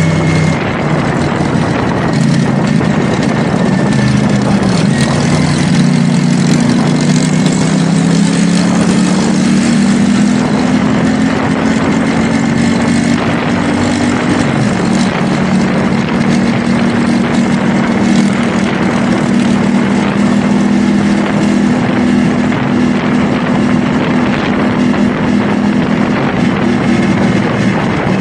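CFMoto 450SR S parallel-twin engine running under way, its pitch dipping and shifting a few times, with a steady rush of wind and road noise.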